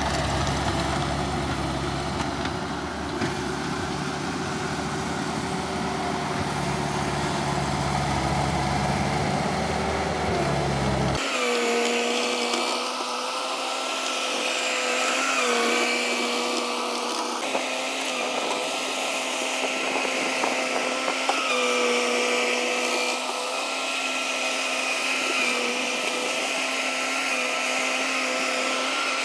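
Mini skid steer engine running steadily while working the driveway. About 11 seconds in the sound changes abruptly to a higher, steady engine note that dips briefly now and then as the machine takes load.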